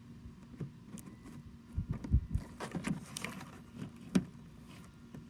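Irregular knocks, thumps and clicks of a cardboard box being handled and opened, with a few heavy low thumps about two seconds in and a sharp knock about four seconds in.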